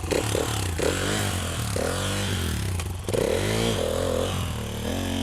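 Motocross motorcycle engine revving, its pitch rising and falling again and again as the throttle is worked.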